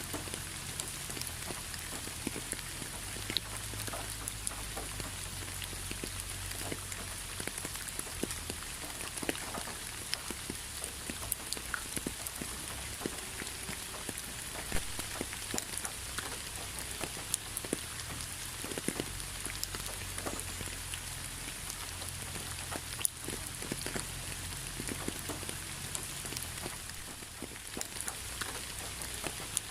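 Steady rain with individual drops ticking and pattering on a surface, scattered drip clicks over a constant hiss.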